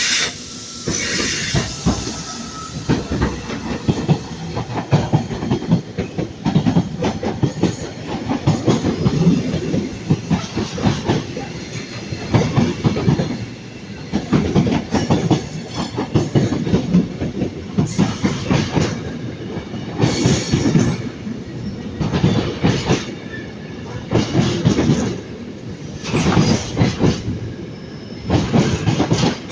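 Train running through the station, its wheels clattering over rail joints and pointwork; in the second half a loud clack comes about every two seconds.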